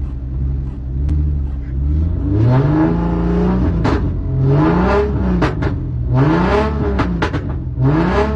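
Car engine revving again and again, its pitch climbing and falling back several times over a steady low drone.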